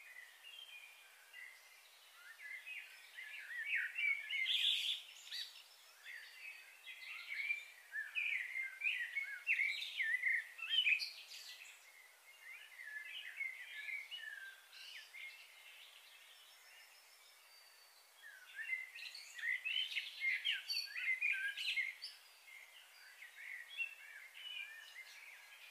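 Several small birds chirping and twittering busily in overlapping bursts, with a quieter spell about halfway through.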